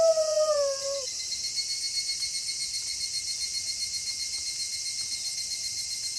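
A wolf's howl slides down in pitch and ends about a second in, leaving a steady night chorus of crickets trilling.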